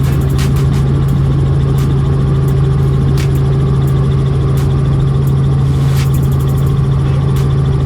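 Helicopter cabin noise in flight: a loud, steady drone of the engine and rotors with a strong low hum, and faint clicks now and then.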